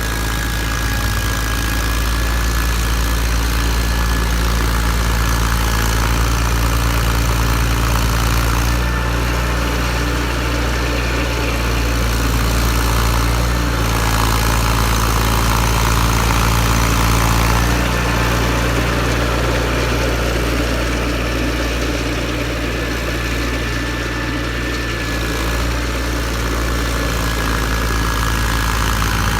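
John Deere 318 garden tractor's two-cylinder Onan engine running steadily under load with its Model 49 snowblower, a thin steady whine sitting above the engine sound.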